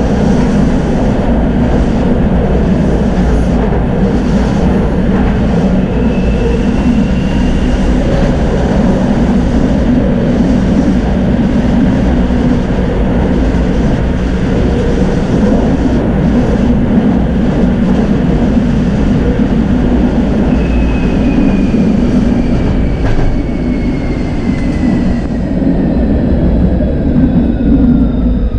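Electric tram running along its rails with a steady rumble. About twenty seconds in, a whine from the electric drive starts and falls steadily in pitch as the tram slows.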